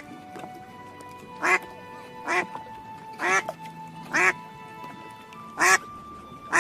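Duck quacking: about five short, separate quacks at uneven intervals of roughly one to one and a half seconds.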